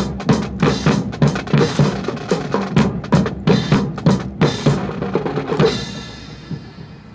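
Drum corps beating a steady marching cadence on bass and snare drums, about three beats a second. It ends near six seconds in on a final stroke that rings on and fades away.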